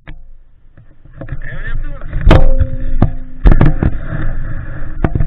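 Derbi 50cc two-stroke engine running on a small dirt bike on the move, with several loud, sharp knocks and thumps over a low rumble.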